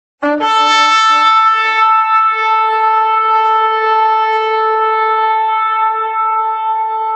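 A shofar being blown in one long sustained blast. It starts suddenly on a brief lower note, jumps up to a held note, and keeps sounding steadily.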